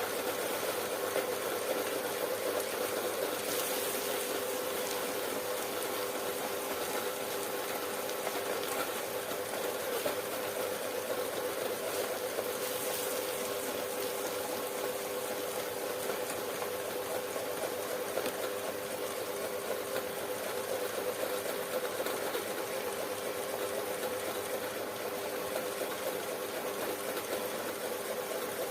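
Homemade electric meat grinder running steadily, its motor driving the grinder through a belt and pulley while it grinds peanuts. A steady hum.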